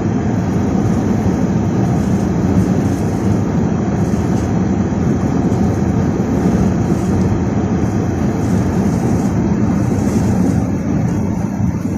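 Steady low rumble of strong wind and travel noise from a moving vehicle, even and unbroken.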